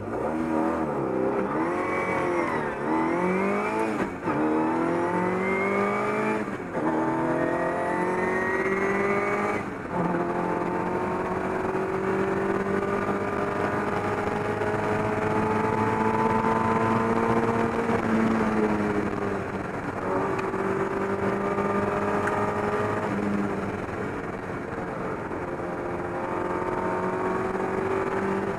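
Austin-Healey Sprite's four-cylinder engine heard from inside the cabin, launching hard from the start line and accelerating up through the gears. The revs climb and drop sharply at shifts about four, six and ten seconds in, then hold high, easing off briefly a few times.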